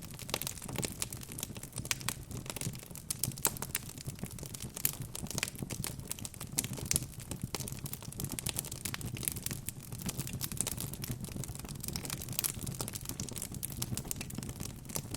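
Wood fire burning in a fireplace, crackling steadily with many small irregular pops and snaps over a low rumble of the flames.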